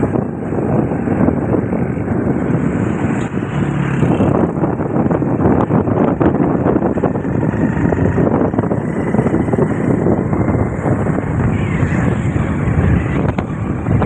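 Steady wind rushing over the microphone, mixed with vehicle engine and road noise while riding on the road.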